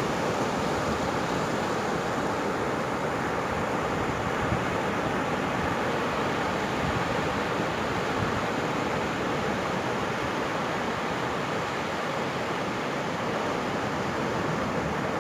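Ocean surf on a sandy beach: a steady wash of breaking waves.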